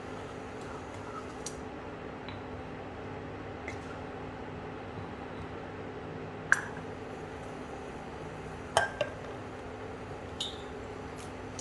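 Kitchen utensils clinking against cookware a few times, over a steady low hum. The loudest clink comes about six and a half seconds in, a quick pair follows near nine seconds and a lighter one after that.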